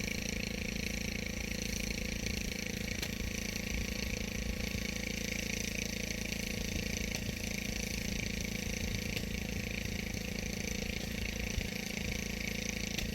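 An engine running steadily at constant speed, with a low, even hum.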